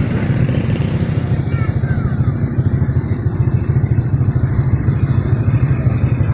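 A small engine running steadily with a fast, even pulse. A few short, faint, high gliding chirps come about two seconds in.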